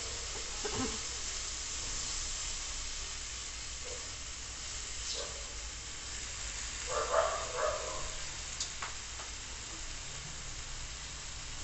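Chhana (fresh cottage cheese) and green peas frying in oil with a steady sizzle, stirred with a silicone spatula. The spatula scrapes and taps the pan now and then, loudest about seven seconds in.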